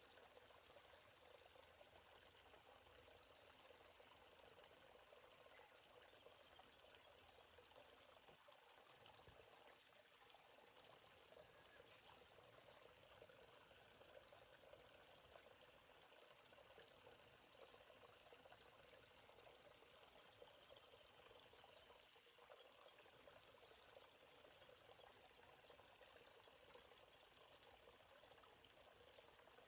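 Steady high-pitched chorus of insects such as crickets, over the soft, even rush of a small forest stream.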